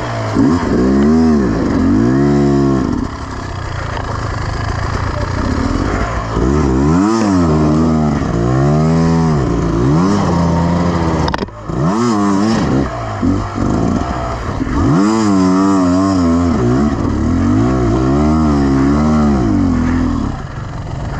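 Beta Xtrainer 300 two-stroke single-cylinder enduro engine revving up and down in repeated throttle bursts, each rise and fall lasting a second or two, as the bike is ridden over a hard trail. The engine note drops out briefly about eleven seconds in before picking up again.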